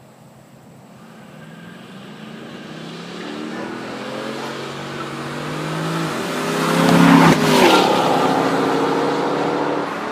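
Chevrolet Camaro SS and Corvette V8 engines racing side by side at full throttle toward and past the listener. The engine note grows louder over several seconds and peaks as the cars pass about seven seconds in. Then it drops in pitch as they pull away.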